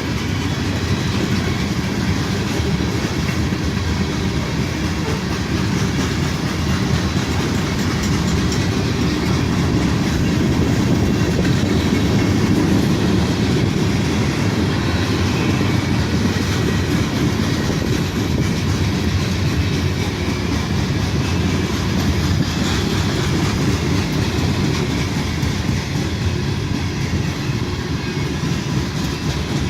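Norfolk Southern freight train cars rolling steadily past, a continuous rumble with the clicking of steel wheels over the rail joints.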